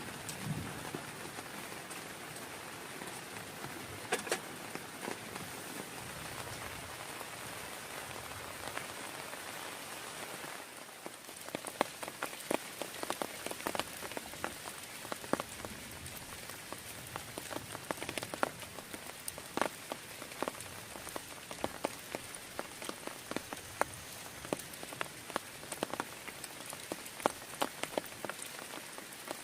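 Heavy rain falling in a steady hiss, with sharp taps of individual drops striking a nearby surface. The taps become much more frequent about a third of the way in.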